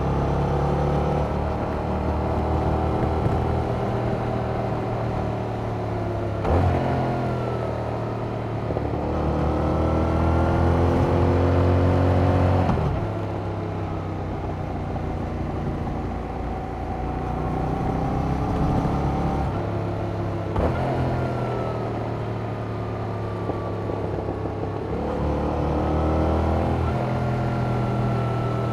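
Yamaha MT-07's parallel-twin engine through its stock exhaust, pulling along a mountain road: the pitch climbs and falls as the rider opens and rolls off the throttle, with sudden jumps in pitch at several gear changes.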